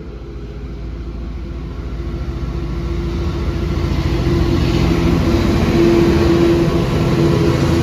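Freight train led by a Pacific National 82 class diesel-electric locomotive approaching, its engine rumble and a steady drone growing louder.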